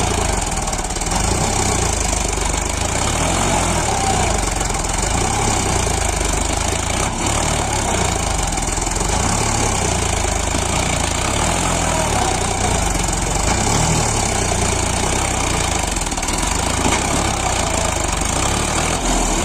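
Sonalika DI 745 tractor's diesel engine running steadily, with the tractor stuck in soft sandy soil.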